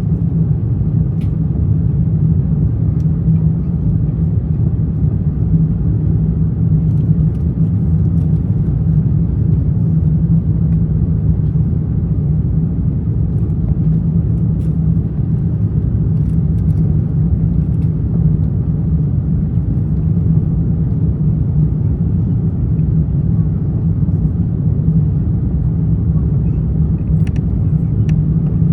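Steady cabin drone inside an Airbus A350-900 airliner in flight: airflow and Rolls-Royce Trent XWB engine noise as an even low rumble, with a couple of faint clicks near the end.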